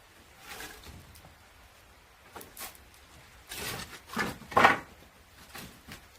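Split firewood being handled and fed into a wood-fired kiln: a series of irregular scraping, sliding knocks, the loudest about four and a half seconds in.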